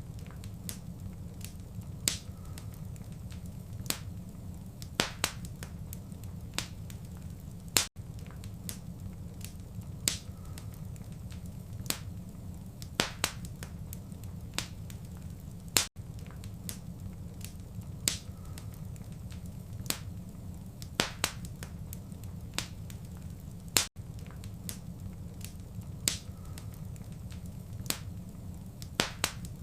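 Fire in a fireplace crackling: irregular sharp pops and snaps over a steady low rumble of the flames. The same crackle pattern repeats every eight seconds, with a brief dropout where the loop restarts.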